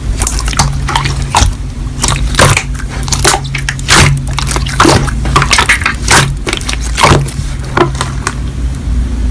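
Slime being squished and pressed by hand: irregular wet clicks and pops, several a second.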